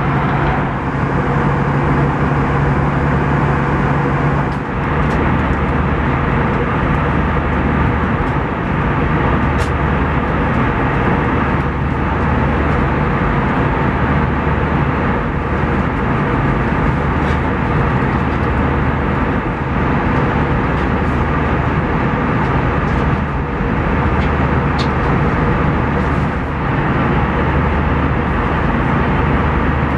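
Steady cabin noise of an Airbus A320 in flight, the even rush of airflow and engines heard from a passenger seat. A low hum under it drops in pitch about four and a half seconds in.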